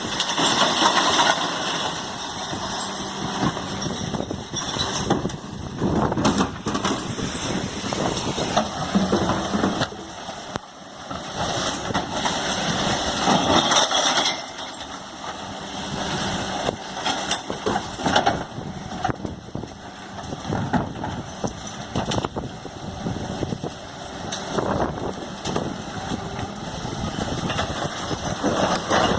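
Geesink Norba GPM III refuse truck at work: its engine running, rising and falling in level, with repeated knocks and clatters as bins of recycling are emptied into the hopper.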